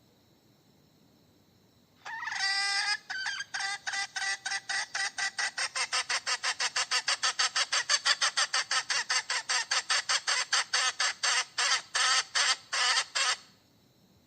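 Hen cackling: a drawn-out opening call about two seconds in, then a long, even run of rapid clucks at about five a second, slowing near the end before stopping.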